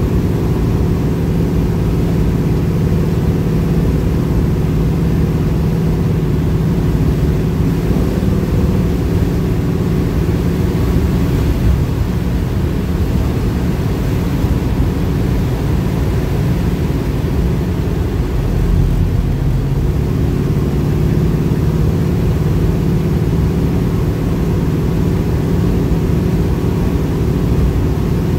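A 1969 Pontiac Firebird's engine running at a steady cruise along with road noise, heard from inside the car. The engine note shifts briefly about two-thirds of the way through.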